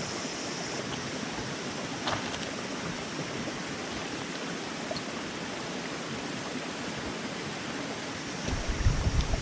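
Steady, even rushing noise, with a faint click about two seconds in and a run of low thumps near the end.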